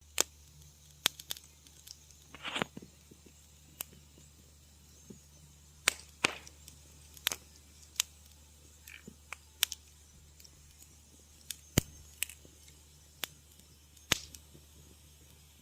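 Wood fire crackling in a fireplace: irregular sharp pops and snaps, one or two a second, over a low steady hum, with a short hissing sputter about two and a half seconds in.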